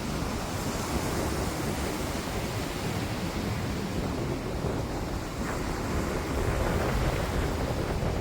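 Sea waves washing in, with wind buffeting the microphone.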